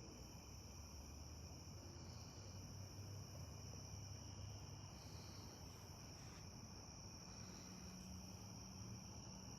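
A faint nighttime chorus of crickets chirping, a steady high-pitched trill that holds unbroken, over a low background hum.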